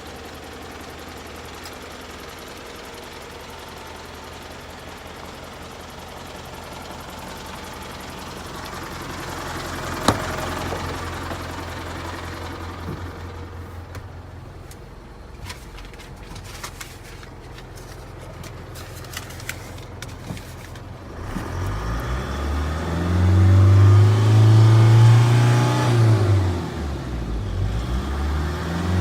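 Isuzu Elf truck's engine idling steadily, then revved up and down several times in the last third. A single sharp click about a third of the way in.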